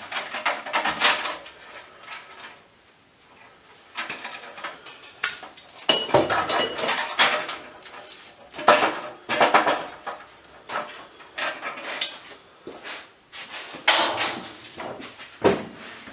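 Small pieces of scrap metal and hardware clinking and clattering as they are handled and dropped while a workbench is tidied, in irregular bursts with a quieter lull about two to four seconds in.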